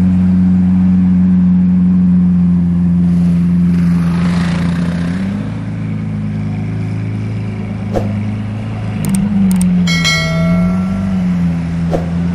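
Lamborghini Aventador's naturally aspirated V12 idling with a steady deep drone, its engine speed rising and falling briefly about nine seconds in as the car moves off. A short bell-like ring sounds about ten seconds in.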